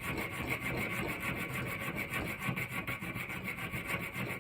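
Hand file, likely a diamond file, rasping back and forth in quick short strokes across the hardened steel tip of a screwdriver held in a vise, cutting slots to make a checkering tool. Slow going.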